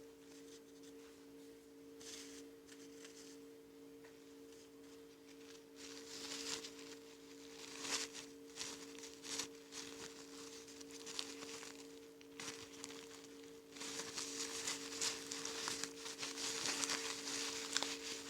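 Crinkling and rustling from hands working with slime-making materials and packaging, sparse at first and busier from about six seconds in, most of all near the end. A steady two-pitch hum sounds underneath throughout.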